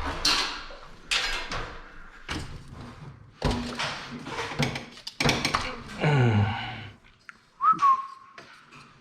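Metal scaffolding parts being handled and set in place: a run of knocks and clatters, with a falling groan about six seconds in. Near the end comes a short whistle-like note that rises and then holds.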